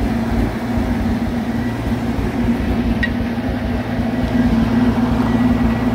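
Oliver 770 tractor engine running steadily at a constant speed.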